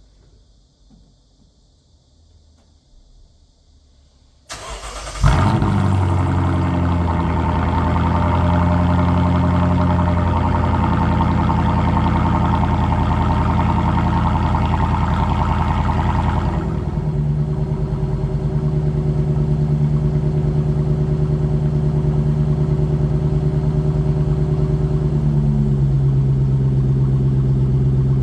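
Lexus LS460's 4.6-litre V8, fitted with a modified exhaust, cold-started: a brief crank about four and a half seconds in, then it catches with a loud burst and runs at a steady fast idle. About 17 seconds in, the exhaust note changes and it settles into a steadier idle.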